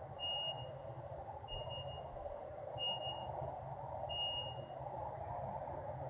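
Vehicle backup alarm beeping four times, one high beep about every 1.3 seconds, over a steady background rumble of industrial noise.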